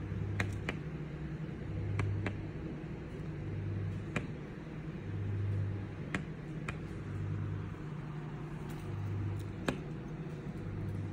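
Small bird pecking at a window pane: sharp single taps, several in quick pairs, a second or few apart. A low hum swells and fades about every second and a half underneath.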